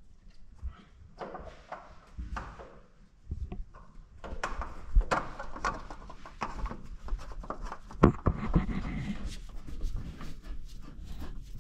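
Irregular rubbing and scraping with scattered clicks and knocks from objects being handled, two sharper knocks about five and eight seconds in.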